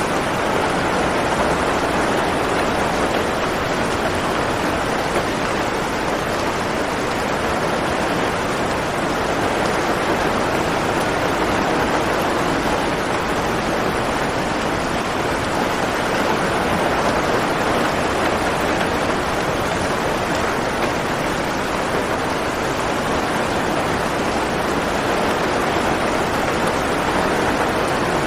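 Steady heavy rain, a continuous even hiss without distinct drops or thunder.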